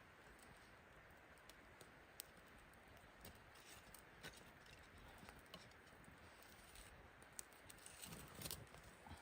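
Near silence with faint scattered clicks and small knocks of hands handling things, a few louder ones together about eight seconds in.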